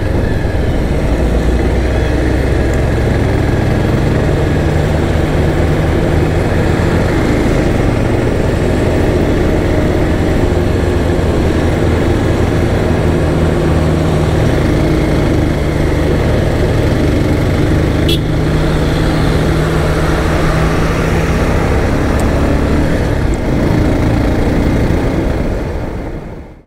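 Motorcycle engine running steadily while riding, under steady wind and road noise; the sound fades out just before the end.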